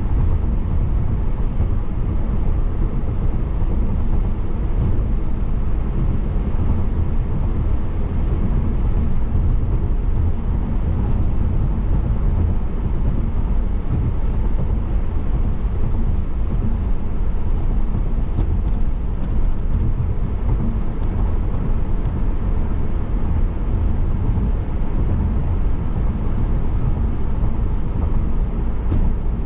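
Car driving at a steady pace: continuous road noise from tyres and engine, low and even throughout.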